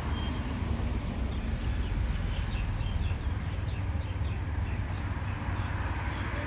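Small birds chirping over and over, many short high calls overlapping, above a steady low outdoor rumble.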